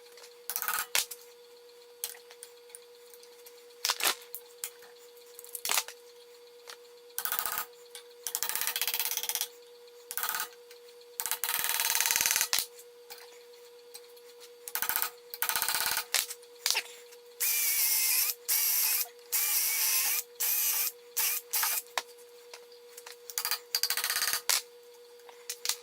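Power drill boring out the wooden handle stub stuck in a hammer head's eye, run in repeated short bursts of one to two seconds with pauses between them. The drilling relieves the wood's tension so the stub can come out. A faint steady hum sits underneath.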